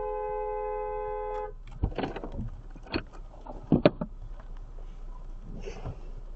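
Car horn held down in a steady two-tone blast that cuts off about a second and a half in, followed by a few sharp knocks.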